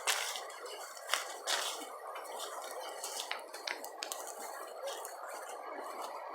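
Running water making a steady rush, with scattered short clicks and drips over it.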